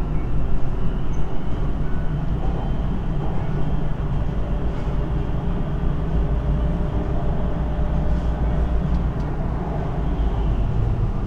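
MRT Kajang Line train running between stations, heard from inside the front car: a steady low rumble of wheels on rail with a faint steady motor whine.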